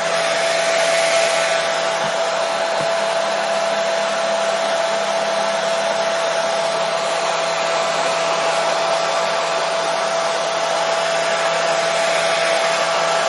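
Hair dryer running steadily: an even rush of blown air with a constant whine from its motor.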